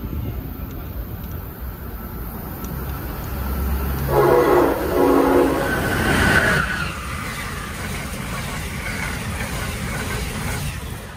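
Amtrak ACS-64 electric locomotive sounding its multi-tone horn about four seconds in, then rushing past at speed. The passenger cars follow with a steady rolling rush of wheels on rail.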